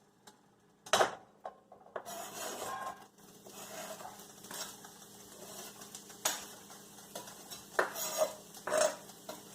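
Diced onions added to oil in a hot skillet: a sharp clank of a utensil on the pan about a second in, then a steady sizzle from about two seconds in, with the utensil clinking and scraping against the pan several times as the onions are stirred.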